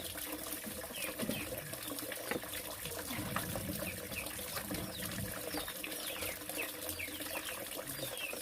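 Water running, with short falling chirps repeating through it every half second or so.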